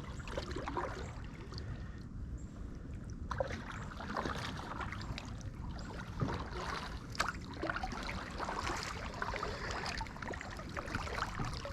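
Kayak paddle strokes dipping and pulling through calm river water, with small splashes and drips off the blades.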